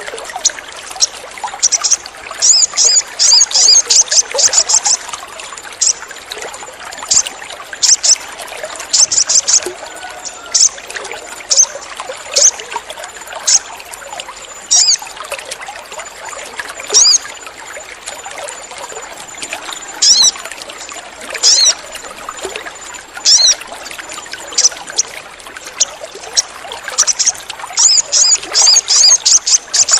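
Sogon bird calling: high, sharp chirps, in rapid clusters near the start and again near the end, with single chirps spaced out in between. A steady trickle of running water runs underneath.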